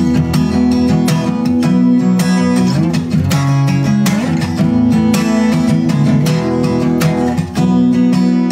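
Acoustic guitar strummed in a steady rhythm, playing an instrumental chord progression.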